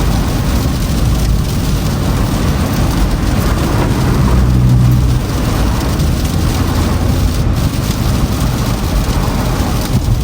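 Toyota Camry driving on a snowy road: a steady low rumble of tyres and engine with a rain-like hiss of tyres through snow and slush, swelling slightly with a low hum about four to five seconds in.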